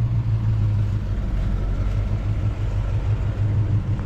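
Car engine running at idle: a steady low rumble.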